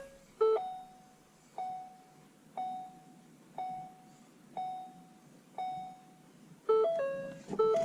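Ford Focus RS dashboard warning chimes as the ignition is switched on: a short multi-note chime about half a second in, then a single chime repeating about once a second, then another run of multi-note chimes near the end.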